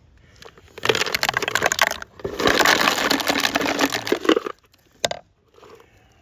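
In-shell pecans rattling and clattering as they are handled and poured, in two dense bursts: a short one about a second in, then a longer one of about two seconds. A single sharp click follows near the end.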